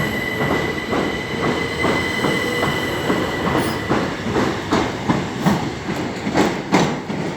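Class 377 electric train moving slowly along the platform, its wheels clicking over rail joints about two or three times a second. A steady high whine fades out about three seconds in, and the clicks grow louder near the end.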